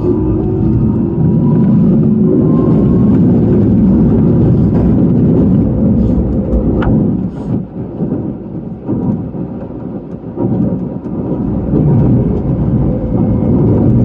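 Keisei Main Line commuter train running, heard from inside the front car: a steady heavy rumble of wheels on rail, with a few sharp clacks over the track and a lighter, more uneven stretch a little past the middle.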